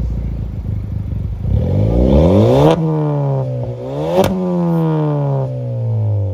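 Volkswagen Golf TSI BlueMotion's turbocharged petrol engine, heard at the exhaust, revved twice from idle. The first rev climbs steadily and peaks about two and a half seconds in before dropping; the second rises quicker to a sharp peak with a click about four seconds in, then the revs fall slowly back toward idle.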